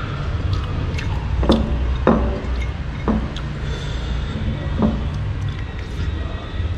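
Several short clinks and knocks of utensils against dishes during eating, over a steady low background rumble.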